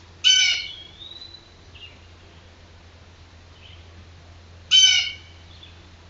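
A bird calling twice, two short loud calls about four and a half seconds apart, with a faint thin whistle just after the first.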